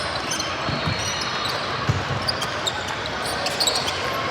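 Game-day ambience: spectators chattering, with a couple of low thuds and scattered short high squeaks.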